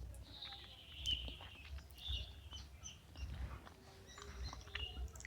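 Birds chirping faintly in short, repeated calls, one falling call near the start, over a low background rumble.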